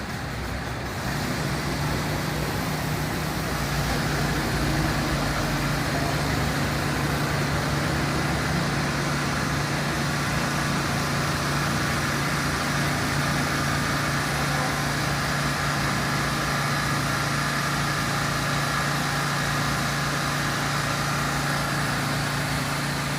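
Fire truck engine idling steadily, a low hum with a fainter higher whine, growing louder about a second in and then holding even.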